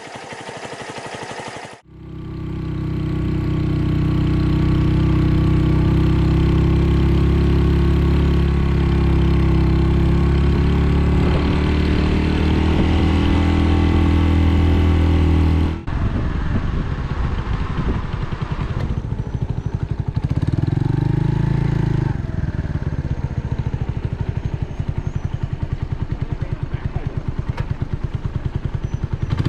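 Restored Wolf motorcycle's engine running steadily under way, then dropping about halfway through to a low putter with distinct firing pulses, blipped briefly a few times.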